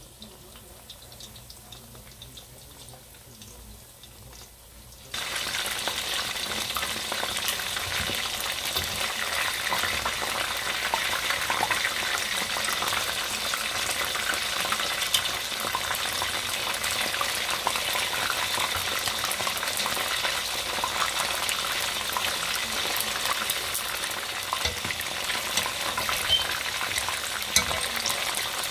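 Battered chicken wings deep-frying in hot oil in a pot: a dense, steady sizzle and crackle. It is quieter for the first few seconds, then abruptly louder about five seconds in, with a few sharp ticks near the end.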